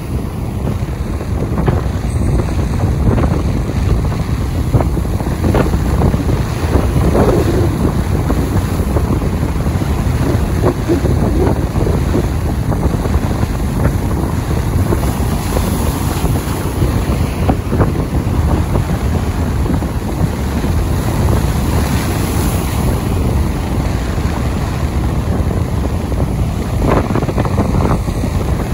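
Strong wind buffeting the microphone: a loud, steady low rumble with constant gusts.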